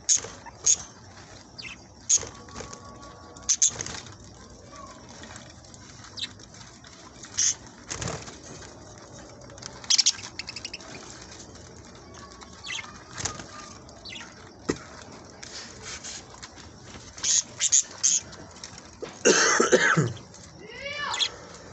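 Budgerigars chirping in short, scattered calls, with a louder, longer burst of sound near the end.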